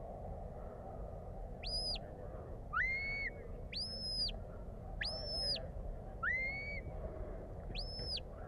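Handler's shepherd's whistle giving commands to a working sheepdog: a string of six short whistle calls. Four are high, held notes, and two lower notes, about three seconds and six and a half seconds in, sweep upward and then hold.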